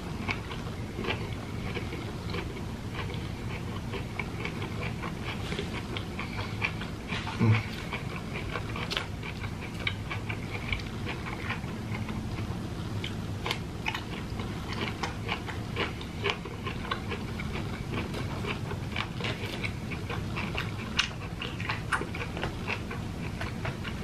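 A person chewing ripe jackfruit flesh close to the microphone: soft, irregular wet smacking and clicking mouth sounds, with one louder thump about seven and a half seconds in.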